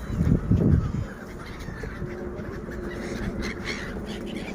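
Gulls calling, faintly and scattered, over a low rumble that is loudest in the first second.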